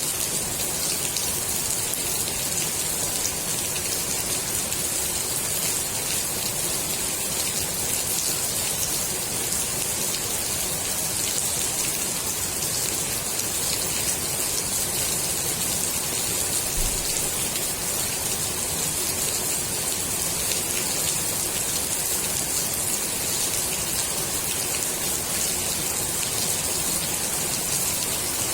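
Steady rain falling on the water of a swimming pool: an even, unbroken hiss of drops, brightest in the high treble.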